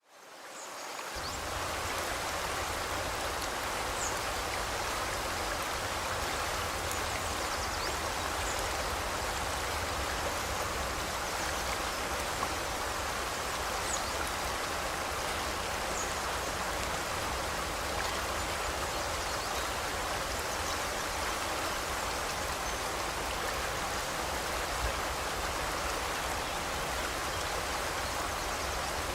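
Forest river flowing with a steady rushing sound, fading in over the first second or so. A few faint, brief high bird chirps come through the water noise.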